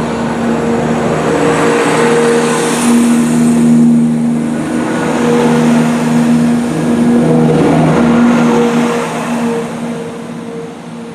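A Class 170 Turbostar diesel multiple unit pulling away, its underfloor diesel engines running hard with a steady low hum and a rush of wheel and engine noise. The sound swells twice, then fades toward the end as the train moves off.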